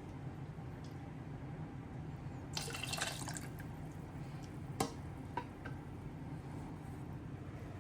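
Liquid splashing briefly about three seconds in, with light dripping, followed by two sharp clicks of kitchenware, over a steady low hum.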